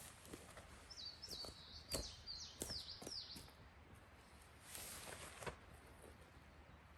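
A small bird singing a quick run of six or seven high, down-slurred notes between about one and three and a half seconds in, over faint outdoor ambience. A few light clicks and knocks fall among the notes, and a brief rustle comes about five seconds in.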